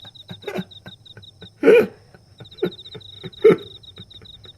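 Small clicks and taps of asari clam shells as a cat paws them out of water, with two short louder bursts about a second and a half and three and a half seconds in.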